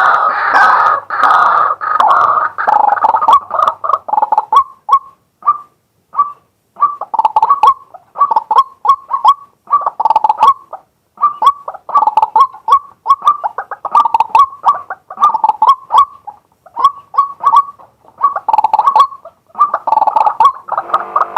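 Male white-breasted waterhen calling loudly. A dense run of calls for the first few seconds breaks up into short notes repeated several times a second, which thicken again near the end.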